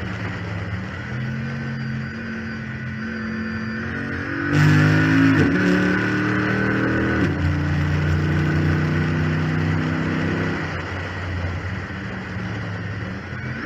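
Chrysler 300 SRT8's 6.4-litre HEMI V8 under part throttle, going to full throttle about four and a half seconds in, with two gear changes, then easing off near the end. A steady whine runs over the engine note, which the owner puts down to the failed power steering pump.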